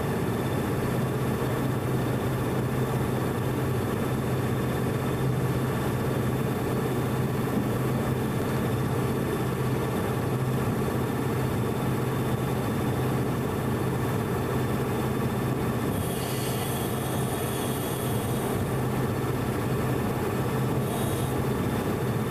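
Train running, heard from aboard: a steady rumble with a constant low hum. Near the end comes a brief high hiss lasting about two seconds.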